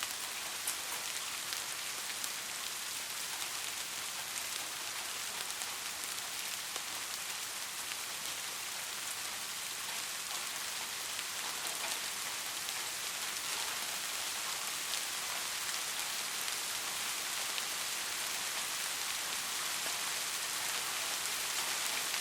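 Steady rainfall, an even hiss of rain with the patter of individual drops on a surface.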